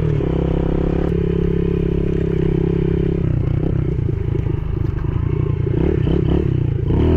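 Yamaha TTR110E pit bike's small single-cylinder four-stroke engine running at steady revs, then going uneven with rapid throttle changes from about three seconds in, with a rise in revs near the end.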